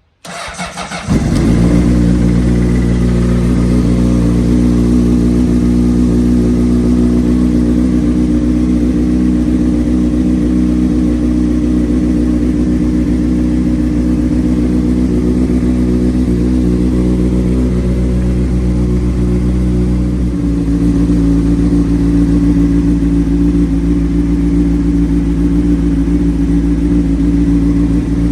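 2003 Honda CBR600RR's inline-four engine with a Yoshimura slip-on exhaust cranking briefly on the starter and firing about a second in, then idling steadily: a cold start after about three years of sitting. The idle note shifts slightly about twenty seconds in.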